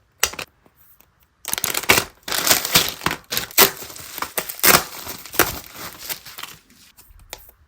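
Packaging being torn open and crinkled by hand: a short rip just after the start, then about five seconds of dense crackling and rustling that tails off into a few small clicks.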